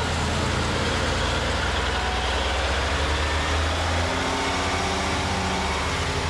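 Heavy equipment engine running steadily, its note shifting about four seconds in.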